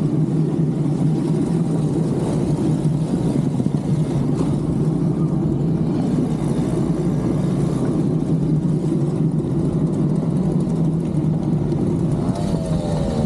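Small 50cc two-stroke moped engine running steadily under way, with a constant drone and road and wind noise.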